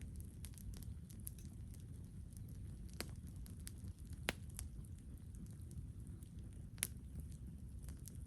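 Wood campfire crackling: scattered sharp pops and snaps over a steady low rumble, the loudest pops about three, four and seven seconds in.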